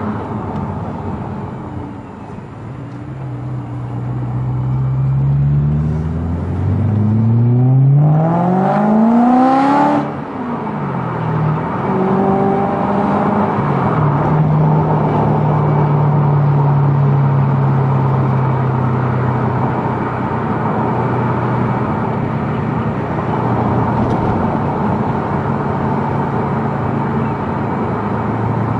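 Car engine and exhaust accelerating, the note climbing steadily for several seconds and dropping abruptly about ten seconds in. It then runs at a lower, steady pitch.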